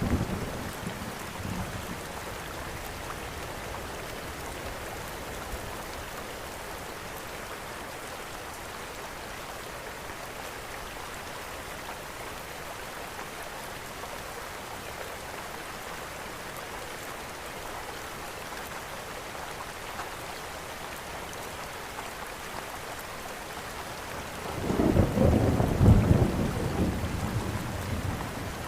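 Steady rain with a rumble of thunder. An earlier roll fades out over the first second or so, and a new low, loud roll comes in about 25 seconds in and dies away over a few seconds.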